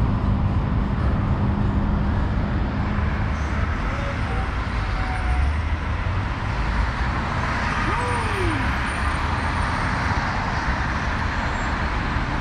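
Steady city road traffic noise, a continuous wash of passing vehicles with an engine hum in the first few seconds.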